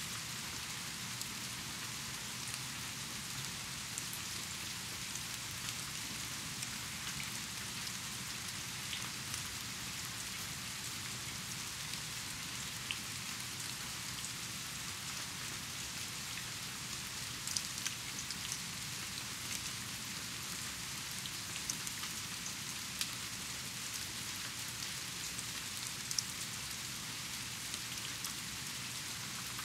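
Steady rain falling, an even hiss with scattered louder drips. A few sharper drips stand out about halfway through and again near the end.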